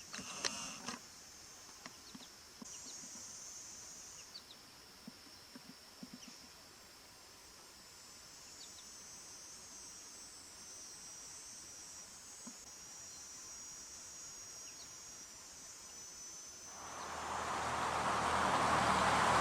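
Outdoor nature ambience: a steady high-pitched insect chorus, with a few short bird chirps in the first second. Near the end a loud, even rushing noise swells in and covers it.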